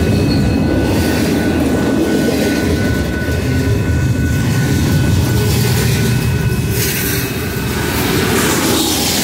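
Double-stack intermodal container cars rolling past at close range: a steady, loud rumble of wheels and cars on the rails, with a thin steady high tone riding over it.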